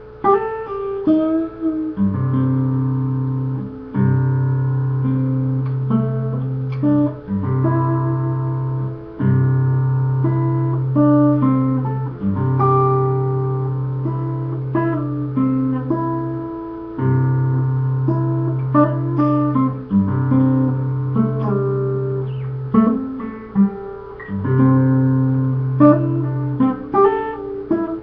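Solo guitar playing a blues/country-style instrumental, with low bass notes held a second or two each under a picked melody of shorter, higher notes.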